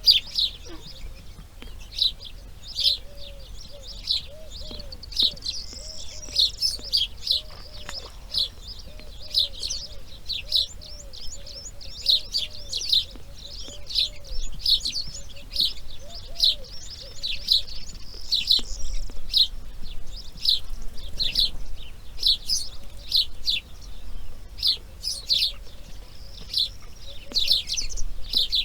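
Birds chirping: a rapid run of short, high chirps, several a second, over a fainter series of short, lower repeated notes.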